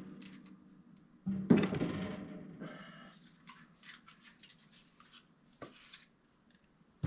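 Steel pieces clanking, one loud clank about a second in that rings and dies away, followed by lighter clinks and a short knock.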